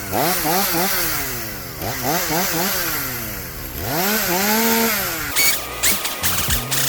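Gas chainsaw cutting up a fallen bur oak, its engine revving up and dropping back again and again as it goes in and out of cuts. The saw stops a little after five seconds in.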